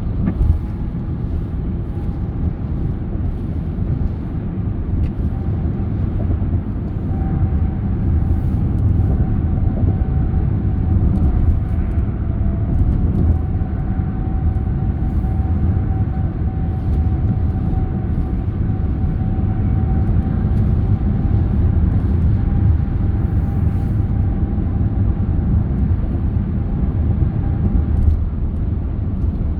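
Car driving along a road: a steady low rumble of tyres and engine, with a faint steady hum above it through most of the stretch.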